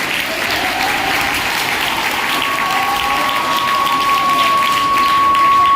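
An audience of students applauding at length. About two seconds in, a steady high single tone joins the clapping and holds.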